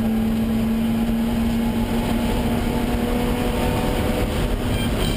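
Racing car's engine running at high, steady revs, heard from inside the cabin over road and wind noise.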